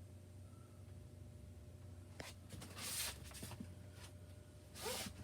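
Faint scuffing and rustling of handling and movement, about two seconds in and again near the end, over a steady low hum.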